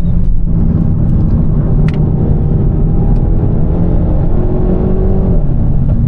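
Renault Mégane RS Trophy's 1.8-litre turbocharged four-cylinder engine pulling under hard acceleration, its note steadily rising, with a brief dip near the start.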